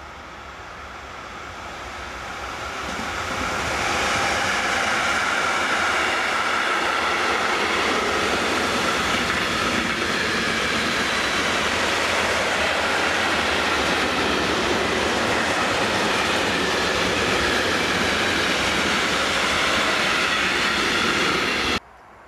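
Freight train hauled by a DB class 185 electric locomotive passing close by with a long string of silo wagons, wheels rolling on the rails. The noise builds over the first four seconds as the train comes near, holds loud and steady as the wagons roll past, then cuts off suddenly near the end.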